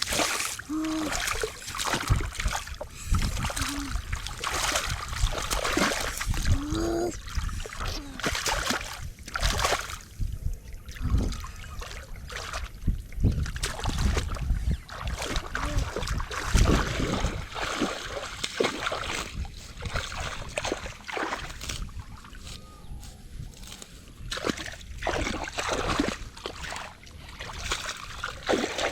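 Water splashing and sloshing irregularly, with many short separate splashes, as hands work through shallow water fishing by hand.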